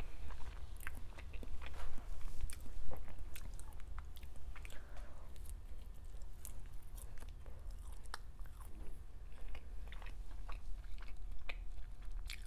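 Close-miked chewing of soft, syrupy French toast: wet mouth clicks and smacks at an irregular pace, loudest about two and three seconds in.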